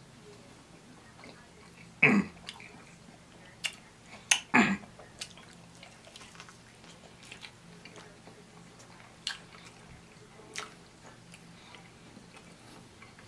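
Close-up eating sounds: a person biting and chewing sauced chicken wings, with scattered wet mouth clicks and smacks. Two louder wet mouth sounds come about two and four and a half seconds in.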